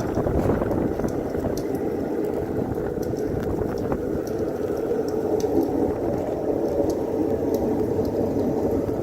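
Blizzard storm noise: a steady rushing with faint scattered ticks.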